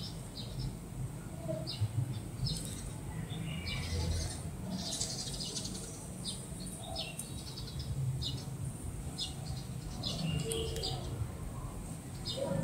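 Small birds chirping: many short, high chirps at irregular intervals, over a steady low rumble.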